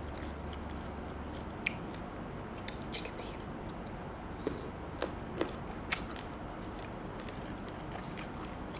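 Close-up eating sounds: a scattering of short, sharp bites and crunches, about eight in all and spaced irregularly, over a steady low hiss.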